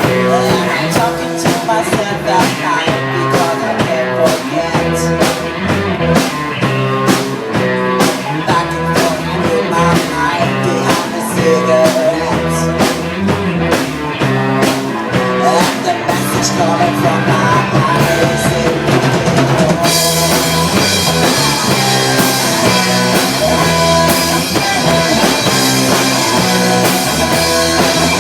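Rock band playing: drum kit with bass drum and rim shots under guitar. About twenty seconds in, the sound suddenly gets brighter and fuller.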